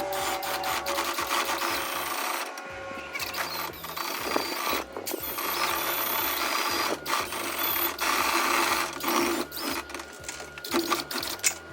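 A power-driven dryer vent cleaning tool running in metal ductwork with a rapid, steady rattle. It stops briefly and starts again several times.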